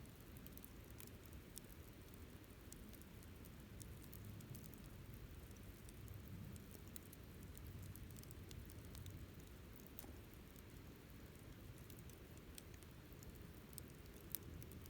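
Wood campfire crackling softly: scattered small pops and ticks over a low steady rumble, with one sharper pop near the end.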